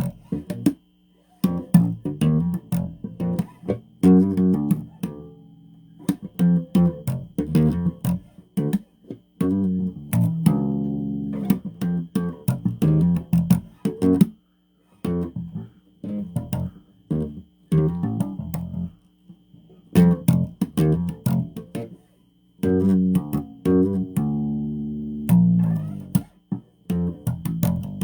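Electric bass guitar played through an amplifier: runs of plucked notes with sharp attacks and a few longer held notes, broken by short pauses, over a faint steady hum.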